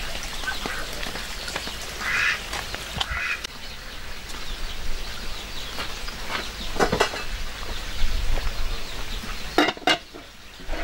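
Ducks quacking a few times, with a couple of sharp knocks near the end.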